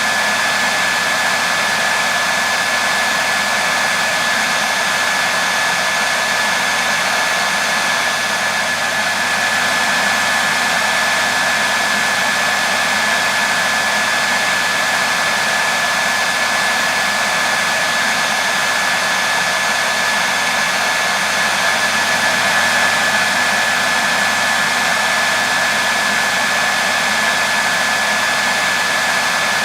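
Hair dryer running continuously: a steady rush of blown air with a constant high-pitched whine from the motor.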